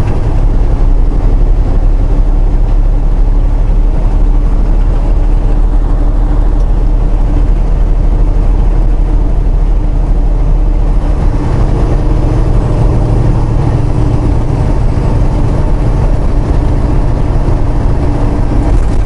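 Semi truck's diesel engine and road noise heard from inside the cab: a steady low drone that grows a little deeper and stronger about halfway through.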